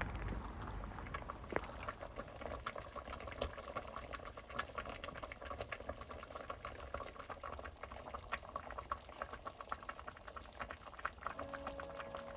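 Liquid bubbling at a boil in a pot, a steady run of many small pops and crackles.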